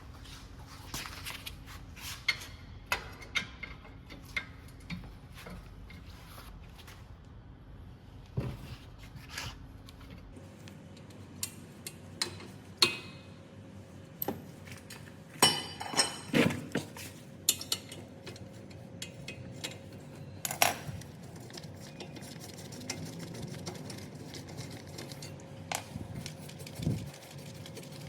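Metal tools and brake parts clinking and knocking in irregular sharp strikes, a dense cluster of them around the middle, over a faint steady hum.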